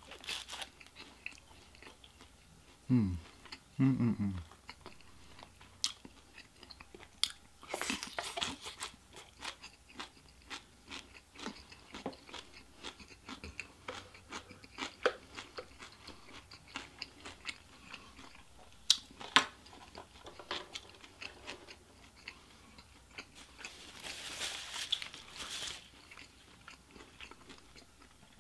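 Close-miked chewing and mouth noises of someone eating Chinese takeout with chopsticks: scattered wet clicks and crunches. Two short falling hums about three and four seconds in, and a longer breathy sound near the end.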